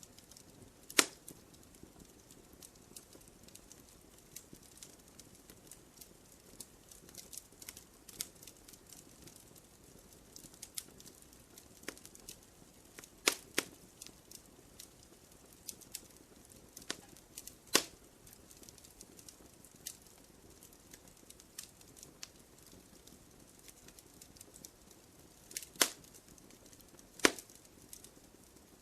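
Wood fire in a fireplace crackling: a faint steady hiss with frequent small irregular crackles and a few sharp, louder pops scattered through, including two close together about halfway and two more near the end.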